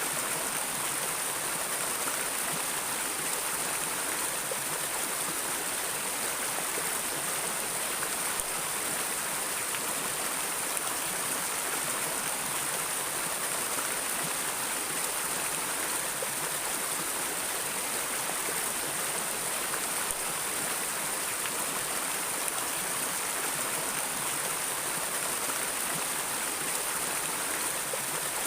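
Stream water flowing steadily, an even rushing and splashing with no change in level.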